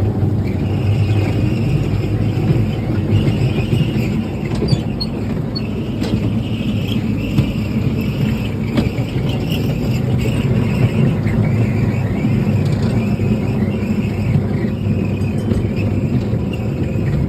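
Park train running along its track: a steady rumble with a higher, wavering squeal above it.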